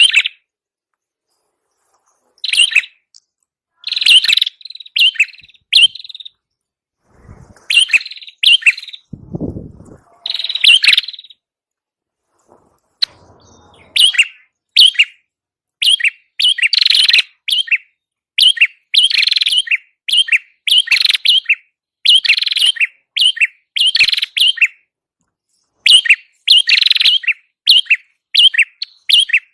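Prenjak kepala merah songbird calling: loud, sharp chirps in quick runs, sparse with pauses at first, then nearly continuous from about halfway through. A short low thump comes about a third of the way in.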